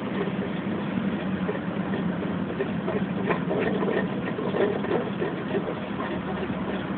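The engine of a 1985 Honda TN Acty mini truck idling steadily, with irregular light ticks over the running. The abnormal noise is put down to the water pump.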